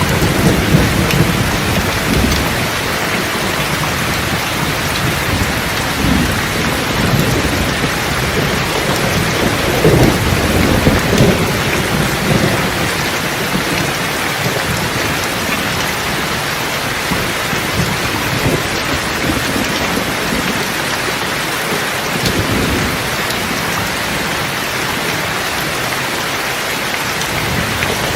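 Steady heavy rain hissing, with low rolling thunder that swells up now and then, most strongly near the start and about ten seconds in.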